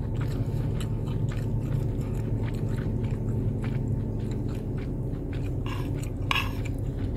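A person chewing a mouthful of beef pulao, rice and meat, close to the microphone: a run of small, wet mouth clicks, with a couple of sharper clicks near the end. A steady low hum runs underneath.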